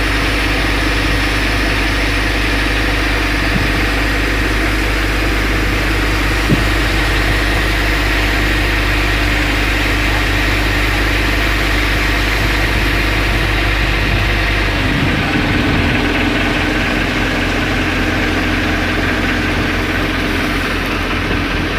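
Fire engine's engine running steadily, with a broad hiss over it. About 15 seconds in, its note shifts.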